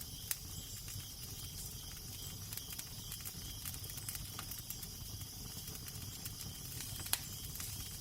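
Fire crackling with scattered sharp pops, the loudest about seven seconds in, over a low steady rumble of wind.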